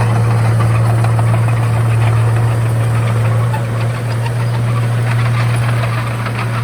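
Komatsu D31A bulldozer's diesel engine running steadily with an even low hum.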